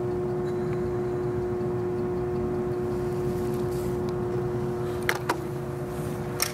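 Toyota 3S-GE BEAMS engine turned over by its starter motor for a compression test: a steady starter whine over a fast, even pulsing, with a few sharp clicks near the end.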